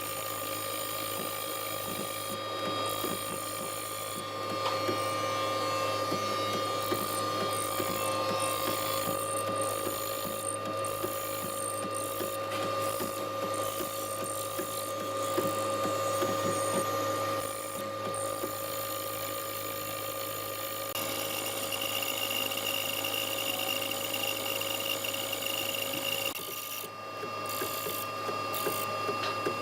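Electric woodworking power tool running steadily with a constant hum and whine, over scattered small knocks and clicks of work on wood.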